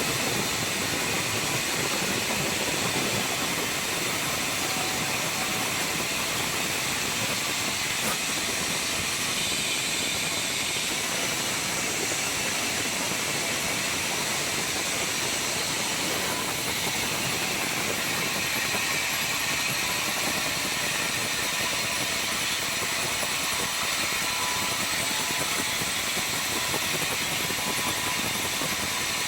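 Sawmill circular saw machine running, a steady, unbroken hissing noise.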